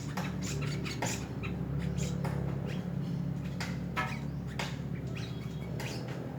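Small birds chirping in quick, short calls, scattered irregularly, over a steady low hum.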